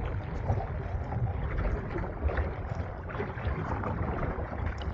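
Strong wind buffeting the microphone in a low rumble, with water splashing and lapping against the hull of a small recreational kayak on choppy water.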